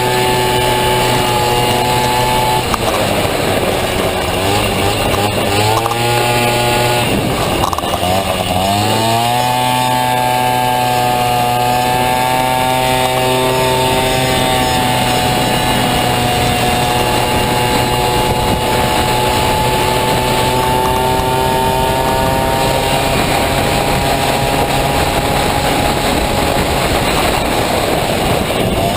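Honda Dio two-stroke 50cc scooter engine in a Honda Motocompo, revving hard. Its pitch drops and climbs back up a few times in the first third, then holds high and steady.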